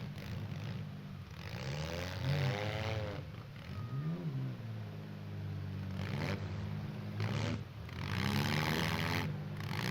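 Demolition derby minivan and SUV engines revving up and down several times, their pitch rising and falling, over a steady low drone.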